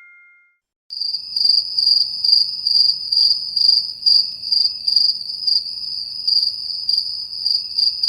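Crickets chirping, the familiar awkward-silence meme sound effect: a steady high trill pulsing about twice a second, starting about a second in. The fading tail of a chime rings out briefly at the very start.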